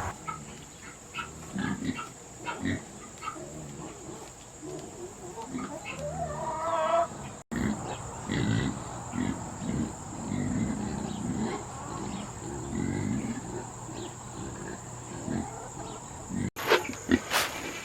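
Boars grunting over and over in short low grunts as they root and eat.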